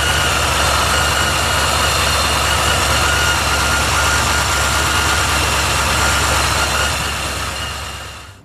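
Supercharged V8 of an HSV E3 GTS idling steadily: a low, even engine note with a steady high whine above it. It fades out near the end.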